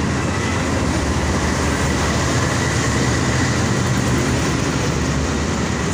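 Passenger train coaches rolling slowly past along the platform as the train pulls into the station: a steady, loud rumble of wheels on the rails, with a faint thin high whine running through it.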